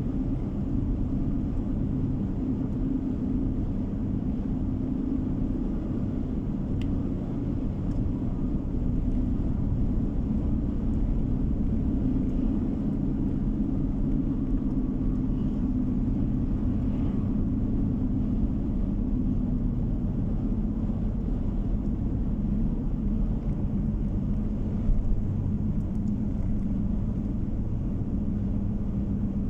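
Steady low rumble of a car driving along a road, heard from inside the cabin: tyre and engine noise at a constant cruising speed.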